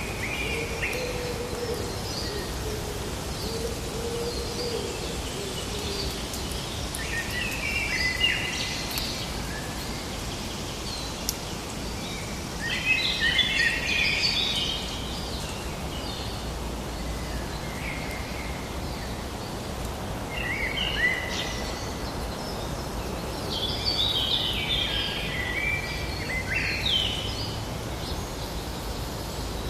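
Forest ambience: songbirds singing in short, busy phrases that come every few seconds, loudest about 13 and 25 seconds in, over a steady background hiss.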